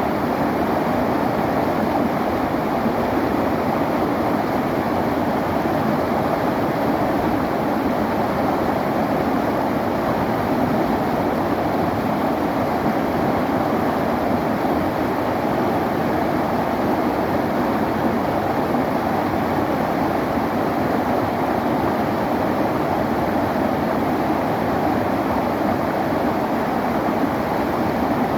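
River water flowing and rushing steadily, an even, unchanging wash of sound that is fuller in the low and middle range than in the hiss.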